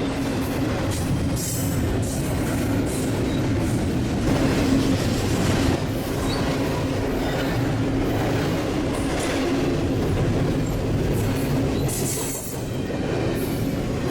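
BNSF intermodal freight train rolling past at close range: a steady heavy rumble with a constant hum, and the wheels clattering repeatedly over the rail joints.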